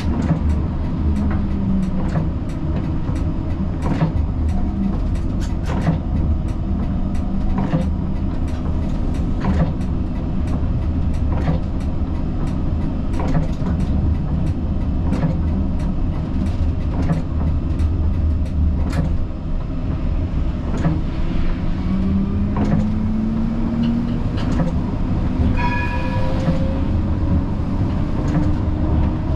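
Siemens Combino tram running on its rails: a steady low rumble with frequent sharp clicks of the wheels over rail joints. Near the end a motor whine rises in pitch, and about 26 seconds in there is a brief high tone.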